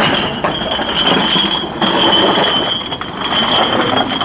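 Shipyard steelwork: repeated metallic clinking and knocking over a steady high-pitched whine.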